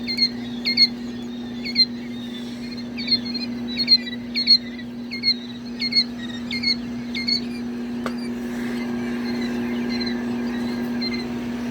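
A brood of baby poultry peeping: short, high, falling peeps, several a second, over a steady low hum. A single sharp click about eight seconds in.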